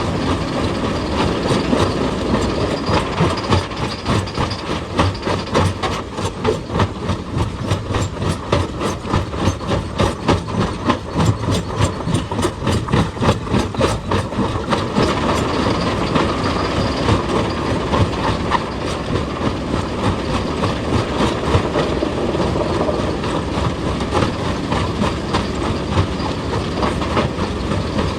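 Heavy excavator engine running with a fast, regular run of hard knocks on rock, densest for the first half and easing toward the end.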